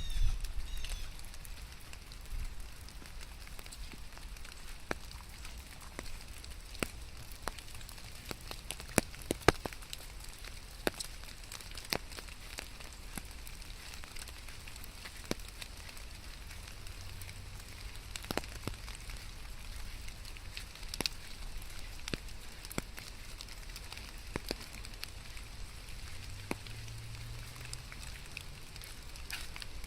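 Steady rain falling, with scattered sharp drops tapping close by. A faint low rumble swells twice, briefly, in the second half.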